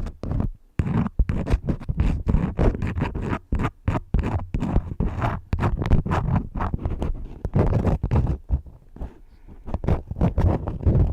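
Crayons scratching and rubbing in quick, irregular strokes close to the microphone, briefly pausing just under a second in and easing off around nine seconds.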